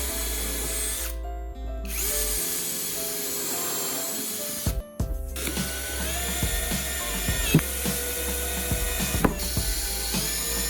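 Electric drill running in stretches over background music, its motor whine climbing and settling about halfway through. Several sharp knocks follow in the second half.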